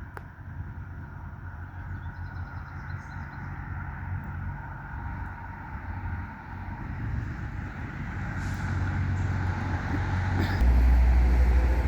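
Road traffic passing: vehicle engine and tyre noise that grows louder, with a heavy low rumble near the end.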